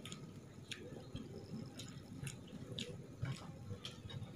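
A person chewing a mouthful of food with wet mouth clicks and smacks, about two a second, while a hand squishes saucy rice in a frying pan.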